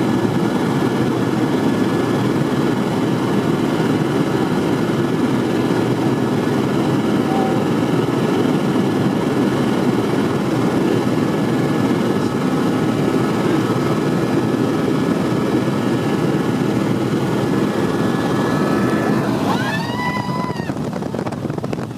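Helicopter cabin noise in flight: the steady drone of the rotor and turbine engine. Near the end a short pitched tone rises and falls over about a second, and the drone gets a little quieter.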